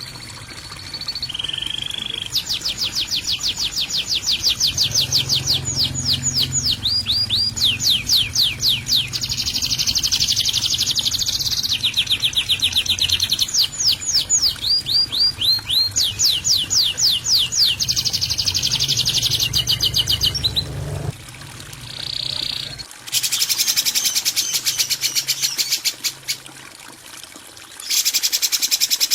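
A songbird sings harsh, rattling phrases of very rapid repeated notes in bursts of a few seconds with short pauses: the rough 'kasaran' style of master song used to train cage birds. A low hum lies under the song and stops about two-thirds of the way through.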